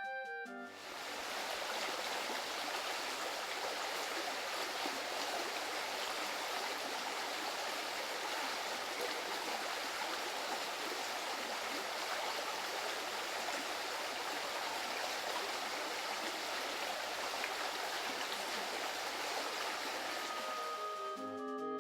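Steady rush of running water, as from a stream, with no birdsong audible over it.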